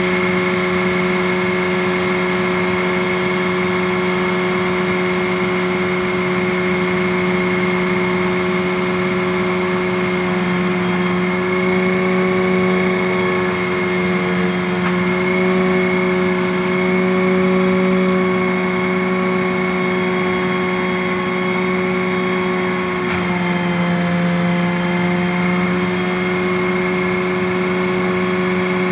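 An engine running at a steady speed, its pitch wavering slightly in the middle and dipping briefly about three-quarters of the way through.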